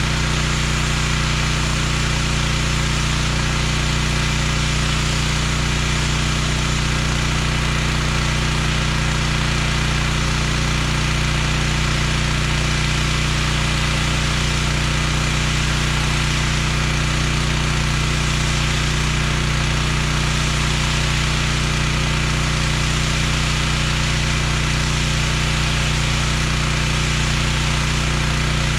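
Gas-engine pressure washer running steadily at a constant pitch, with a steady hiss over it.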